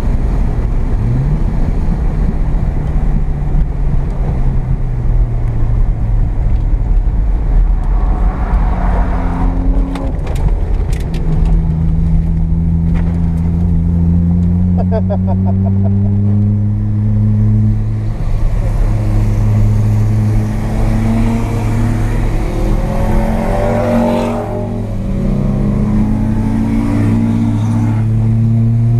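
Mazda RX-7's carbureted 12A two-rotor rotary engine under load, heard from inside the cabin. Its pitch climbs over several seconds about halfway in, then holds fairly steady with small dips as the throttle eases and comes back on.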